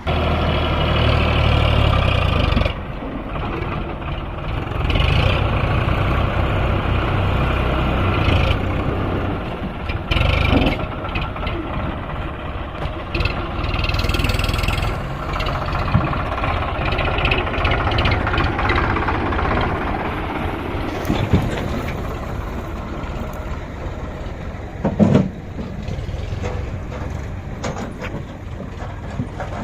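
Tractor diesel engine running under load, its pitch and level shifting, with a few short knocks and bangs, the loudest about 25 seconds in.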